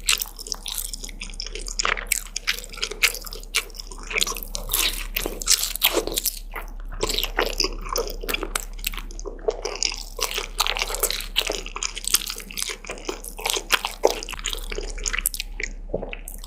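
Close-miked eating sounds: a person chewing and biting food, with a dense, continuous run of small wet mouth clicks and crunches.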